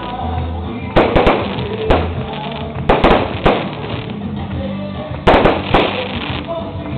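Fireworks going off: about ten sharp bangs in clusters of two or three, roughly every one to two seconds, over music playing underneath.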